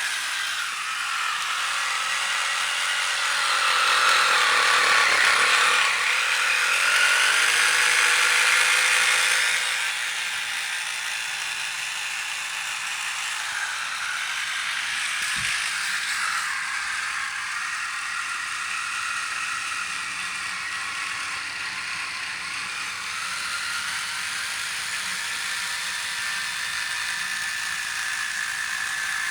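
Battery-operated vintage Pan Am toy airplane running on weak batteries: its small electric motor whirs and its plastic gears rattle and clatter. It is louder for the first ten seconds or so, then steadier, with one brief knock about halfway through.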